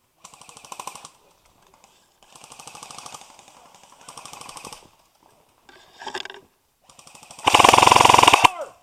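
Airsoft electric guns firing full-auto bursts of rapid clicks: several fainter bursts, then a loud burst of about a second near the end.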